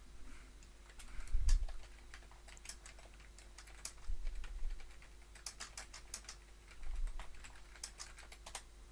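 Typing on a computer keyboard: irregular clusters of keystroke clicks, with a few low thumps in between, the loudest about a second and a half in.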